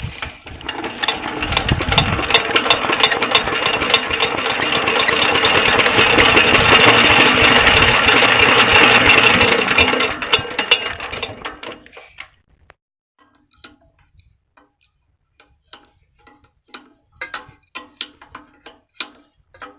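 Old 16 HP Peter diesel engine turning over with a dense, rapid mechanical clatter that swells, then dies away about twelve seconds in without the engine running on. A series of sharp metallic clicks and taps follows.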